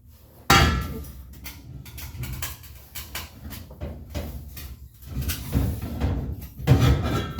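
A sudden loud knock about half a second in, followed by a string of irregular knocks and rattling clatter, with another loud cluster of knocks near the end.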